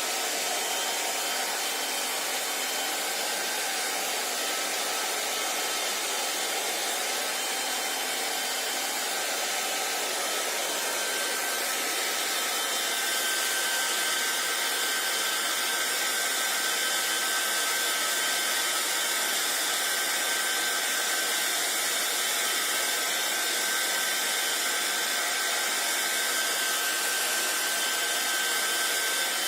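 Handheld electric hair dryer running continuously: a steady rush of blown air with a faint steady whine from the motor. About twelve seconds in the sound shifts slightly and grows a little louder.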